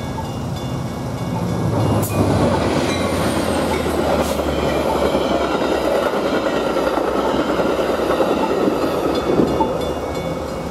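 Metra commuter train's bi-level coaches rolling past over the grade crossing, a steady rumble of wheels on rail with sharp clacks about two and four seconds in, easing off near the end. The crossing's mechanical bell rings beneath it.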